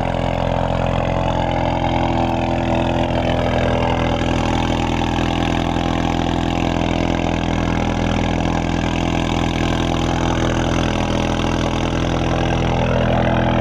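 2018 Ford Mustang EcoBoost's 2.3-litre turbocharged four-cylinder idling steadily through a straight-piped exhaust with the muffler and resonator deleted, after a partly warm start. Loud.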